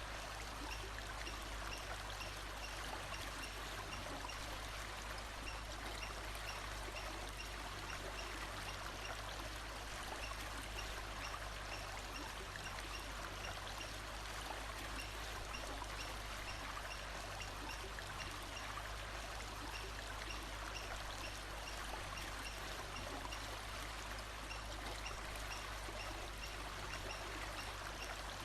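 A stream flowing steadily, with faint, short, high chirps repeating in the background.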